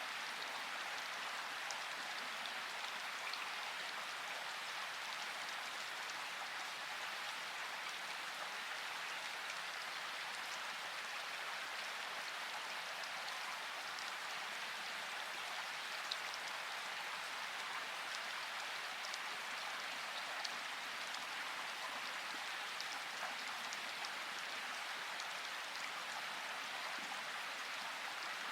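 Steady rain with faint scattered drop ticks.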